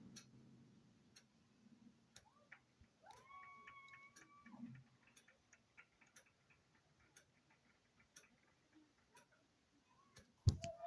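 Faint ticking of a clock, about one tick a second, in a quiet room. About three seconds in comes a faint held tone lasting about a second, and near the end a single loud knock.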